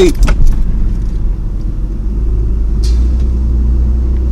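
Steady low rumble of a car heard from inside the cabin while driving.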